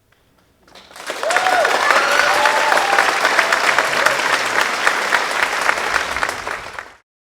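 Audience applauding, with a few cheering whoops over the clapping. It begins about a second in and cuts off abruptly near the end.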